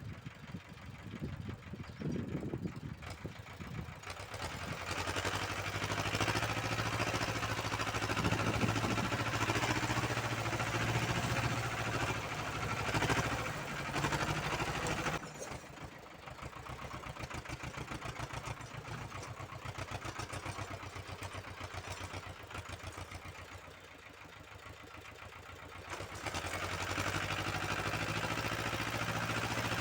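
Uralets walk-behind tractor's engine running with its rotary tiller fitted, the note rising and falling with the load: loud through the first half, dropping lower and quieter about halfway, then picking up again near the end.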